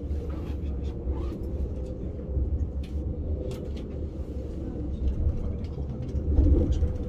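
ICE high-speed train running, heard from inside the carriage as a steady low rumble with a faint hum and scattered light clicks.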